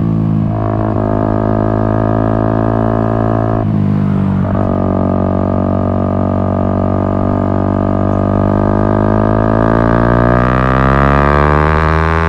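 Yamaha MT-125's single-cylinder four-stroke engine through an Akrapovic exhaust, holding a steady note. About four seconds in it dips briefly for a gear change, then the pitch climbs steadily as the bike accelerates over the last few seconds and falls away at the very end with the next shift.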